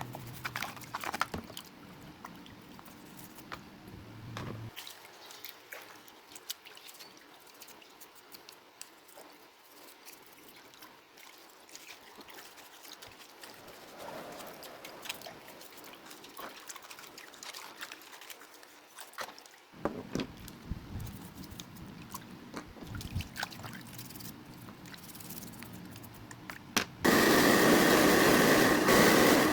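Scattered small clicks and taps of parts being handled, then near the end a loud, steady mechanical whirring hum starts abruptly, like a small electric motor switched on.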